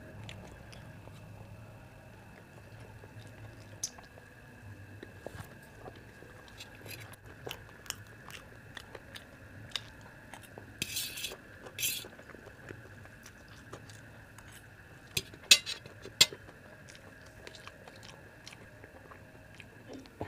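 Close-up chewing and biting of an egg roll and vegetable noodles, with scattered sharp clicks of a steel fork against a steel plate and a few louder bursts about 11 and 15 seconds in. A faint steady high hum sits under it all.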